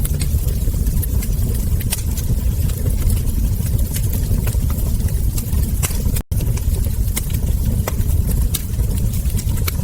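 Wood fire crackling, with frequent sharp pops and snaps over a steady low rumble. The sound cuts out for a split second about six seconds in.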